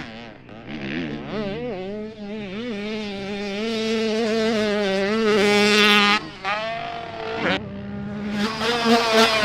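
Motocross dirt bike engine held on the throttle, its note wavering and growing louder for about six seconds, then cutting off abruptly, and picking up again near the end.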